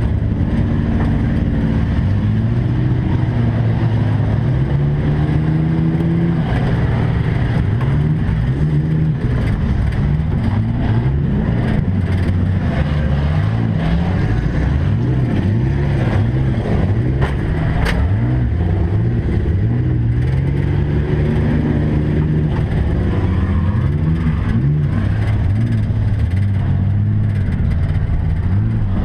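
Race trucks' engines running hard, their pitch climbing and dropping again and again as they accelerate and lift off, several engines overlapping throughout.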